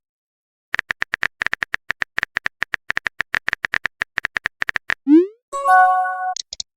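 Text-message chat sound effects: rapid typing clicks, several a second, for about four seconds, then a short rising swoop and a brief chime of a few held tones, like a message being sent and received.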